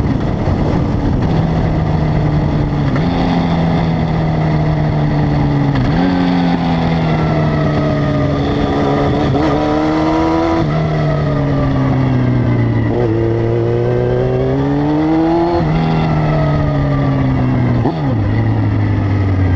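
Honda CB900F (919) inline-four motorcycle engine under way. Its note climbs and then drops again and again as the throttle is rolled on and gears are changed, then settles to a low steady note near the end.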